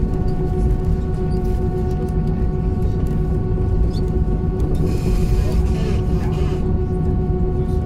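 Airbus A321 cabin noise with the engines running: a steady low rumble under a hum of several steady tones, and a brief hiss about five seconds in.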